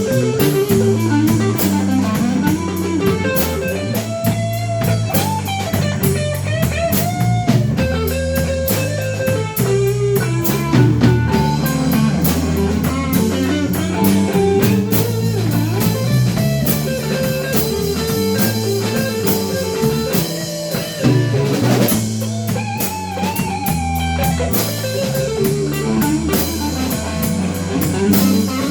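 Blues band playing a slow instrumental passage: a lead guitar solos with bent notes over bass guitar and drum kit.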